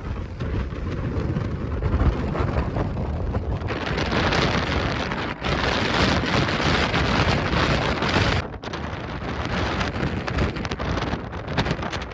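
Strong wind buffeting the microphone: a continuous rushing, rumbling noise that grows louder and brighter about four seconds in, easing briefly near the end.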